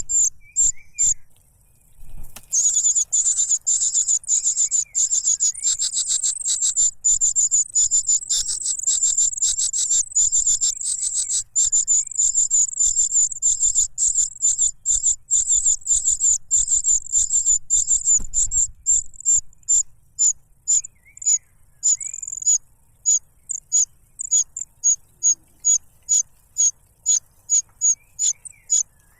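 Cuckoo chick begging for food: a stream of rapid, high-pitched chirps that runs almost without a break, pauses briefly near the start, then thins to separate calls at a few a second over the last third.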